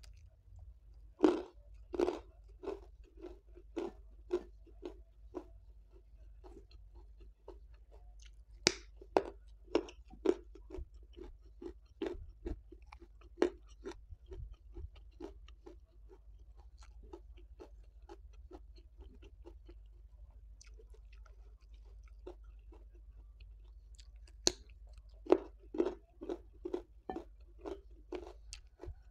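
A person chewing crunchy food close to the microphone: crisp crunches about two or three a second in bouts, thinning out in the middle and picking up again near the end.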